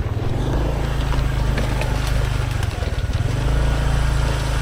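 Small motorcycle engine running steadily under load as it is ridden over a rough trail, with a haze of riding noise and a few light knocks.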